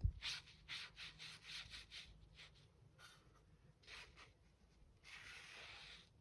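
Watercolour brush stroking across paper, laying a wash: a quick run of short, soft brushing strokes, a few more spaced out, then one longer sweep near the end. A soft knock comes right at the start.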